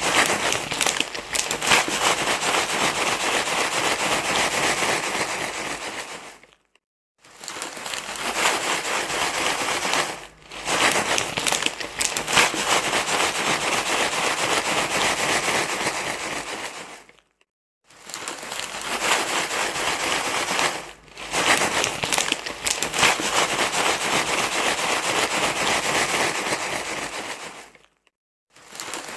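Crinkling, rustling noise, dense and crackly, in long stretches broken by short pauses every five seconds or so, three of which drop briefly to silence.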